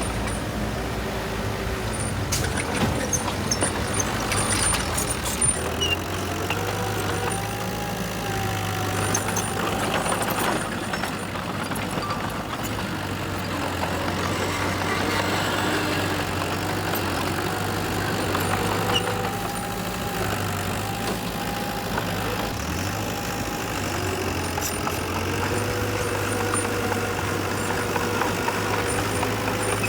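Diesel engines of heavy construction machinery running steadily, with a whine that rises and falls over the low engine note.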